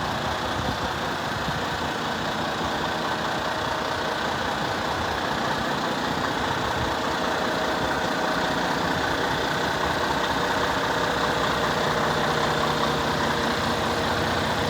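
Mack Pioneer semi tractor's diesel engine idling steadily.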